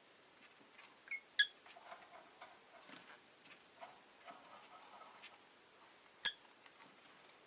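Rosy-faced lovebird giving short, sharp high chirps: two close together about a second in and one more near the end, with soft, faint chattering and clicks between.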